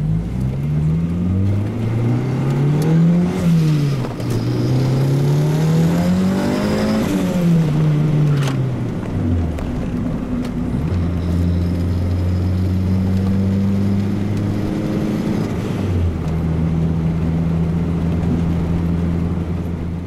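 Turbocharged Honda B18C four-cylinder engine (Turbonetics T3/T4 turbo at 7 psi), heard from inside the cabin on a hard acceleration run: the pitch climbs, drops sharply at an upshift about three seconds in, climbs again to about seven seconds, then falls away as the throttle is lifted. It then settles into a steady cruise, with a brief dip in pitch about sixteen seconds in.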